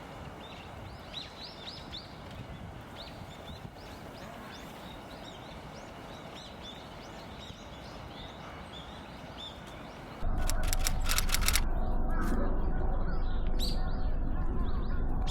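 Small birds chirping, many short high calls over a steady outdoor hiss. About ten seconds in, a much louder low rumble comes in suddenly with a quick run of sharp clicks, and the chirps go on above it.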